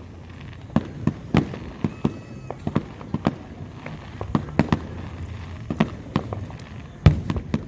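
Fireworks bursting in an irregular run of sharp bangs and pops over a continuous low rumble, with the loudest bang about seven seconds in.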